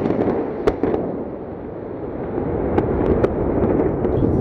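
Rocket rumbling with sharp, irregular cracks and crackling, building in loudness toward the end.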